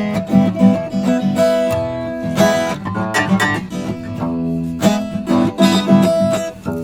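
Acoustic guitar being strummed and picked, with chords and single ringing notes.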